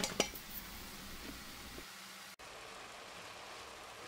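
Faint, steady sizzle of minced beef and finely chopped vegetables sautéing in a pot, with a brief break a little past halfway.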